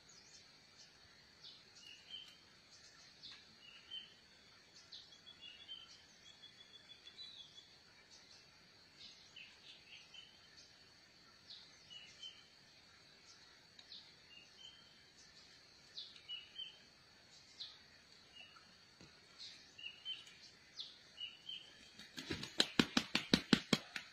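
Small birds give short, repeated chirps every second or two over a steady, high insect drone. Near the end a sudden rapid run of about a dozen loud clicks, roughly six a second, lasts under two seconds.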